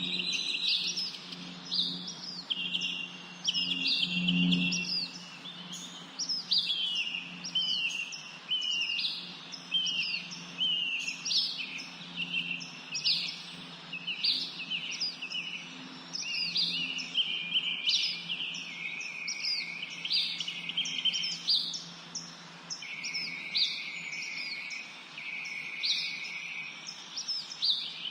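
A chorus of many small songbirds chirping and singing at once, a dense, unbroken run of quick high notes and short trills. A faint steady low hum runs beneath, fading after the first half.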